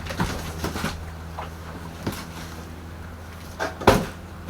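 A few light knocks, then one sharp thump near the end, over a steady low hum.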